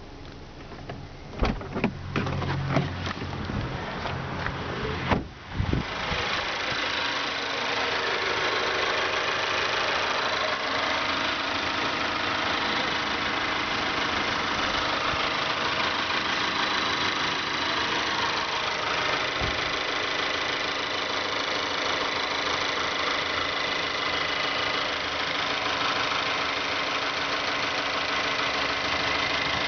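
2012 Mazda3 2.0 L Skyactiv direct-injection petrol engine: a few sharp knocks in the first seconds, then the engine running steadily at idle from about six seconds in, with the tapping tick that the owner finds annoying and the dealer calls normal.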